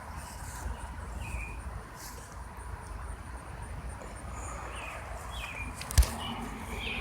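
Birds chirping a few times, short rising and falling calls, over a low steady rumble, with one sharp click about six seconds in.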